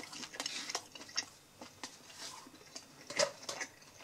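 A person chewing a breaded chicken nugget dipped in curry sauce: faint scattered small clicks and mouth noises, with one louder click about three seconds in.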